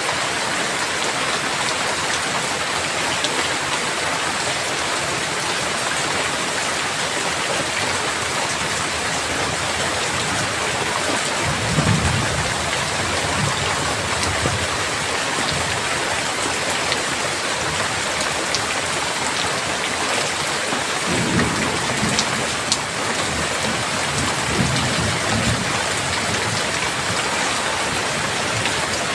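Steady heavy rain falling, with low rolls of thunder rumbling twice: once about twelve seconds in and again about twenty-one seconds in, the second lasting several seconds.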